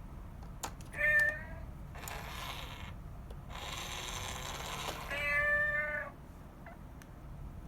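A cat meows twice: a short meow about a second in and a longer one around five seconds in. Between the meows are two stretches of rasping, scraping noise.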